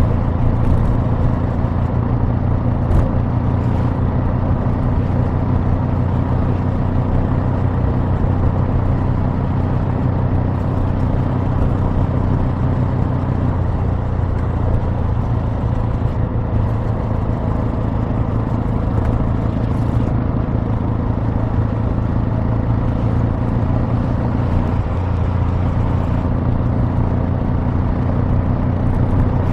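Exhaust of a Kawasaki W800's air-cooled parallel-twin engine running steadily at an even engine speed, a deep, unchanging note.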